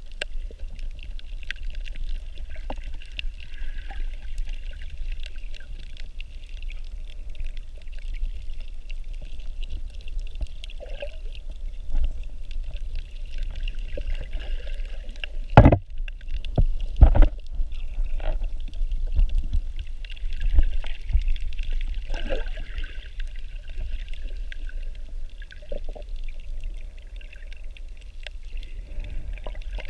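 Water sloshing and gurgling around a snorkeler's camera, with a steady low rumble. About halfway through come two louder thumps or splashes, with smaller ones scattered around them.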